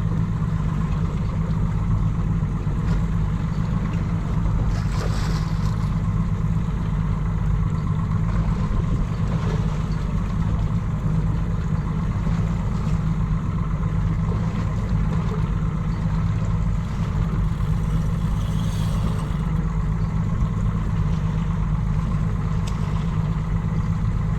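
A boat engine running steadily at low revs, a constant low hum, with wind and water noise on the microphone. There are brief hissing bursts about five seconds in and again near nineteen seconds.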